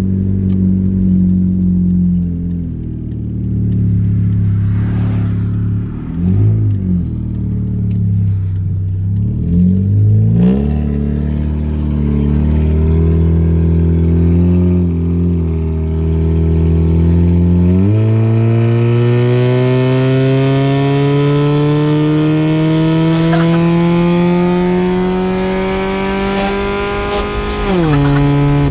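Oldsmobile Alero engine running with no exhaust after the headers (catalytic converter and muffler cut out), loud and raw while driving. A few quick blips of the throttle, then a long, steady climb in engine pitch under acceleration that drops off sharply near the end.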